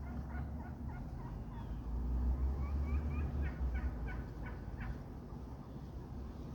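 Wild turkeys calling: a rapid run of short, high, clipped calls, about three a second, fading out about five seconds in. A steady low rumble runs underneath.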